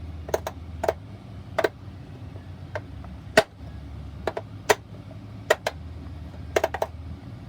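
Plastic clicks from the height-adjustment selector at the base of a Bissell Rewind SmartClean upright vacuum being moved through its settings: about fifteen sharp clicks at uneven spacing.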